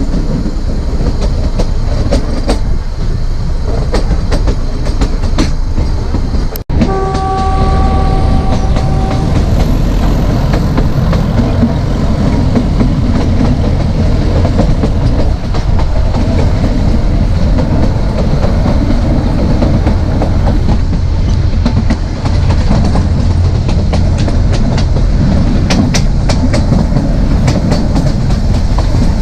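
Narrow gauge train running, with a steady rumble and the clatter of wheels over rail joints. About seven seconds in, the ZDM4A diesel locomotive sounds its horn once, a steady tone held for two or three seconds.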